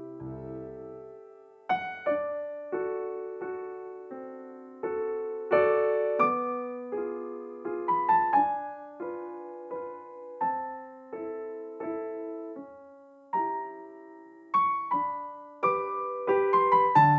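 Background piano music: a slow, gentle melody of single struck notes with chords underneath.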